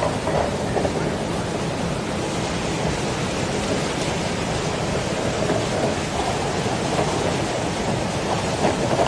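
Heavy rain falling steadily: a dense, even rush of noise with a strong low rumble.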